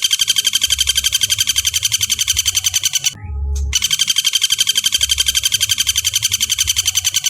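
Woodpecker (pelatuk bawang) giving its rapid rattling call: two long trills of fast, evenly repeated notes, about nine a second, with a short break a little after three seconds.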